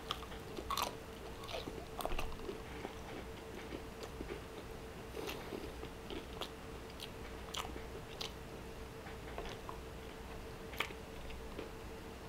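Biting into and chewing chicharrón, crispy fried pork belly, with short sharp crunches every second or so.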